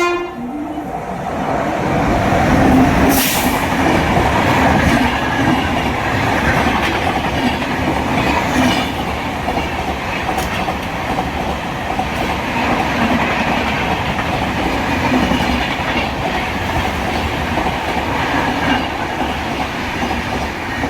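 An express passenger train passing at speed. A horn blast cuts off at the very start, then the coaches roll by with a loud, continuous wheel-on-rail rumble and clickety-clack over the rail joints.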